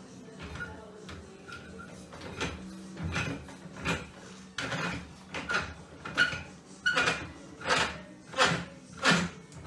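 Rhythmic strokes of manual construction work: a few irregular knocks at first, then about halfway in a steady run of about one and a half strokes a second.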